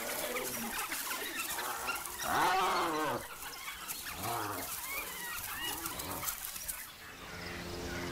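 African wild dogs and spotted hyenas calling as they clash over a kill: a run of rising-and-falling yelping calls, the loudest a long one about two seconds in.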